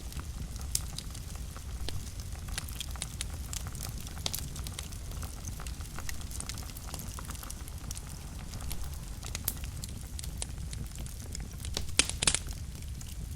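Wood fire burning in a fireplace: a low steady rumble of flames with scattered sharp crackles and pops, and a louder cluster of pops about twelve seconds in.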